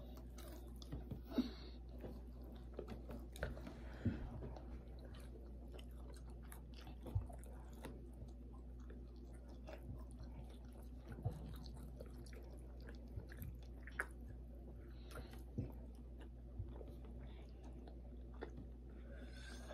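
Close-up chewing and biting of breaded fried pork chop: irregular wet mouth clicks and small crunches, over a low steady hum.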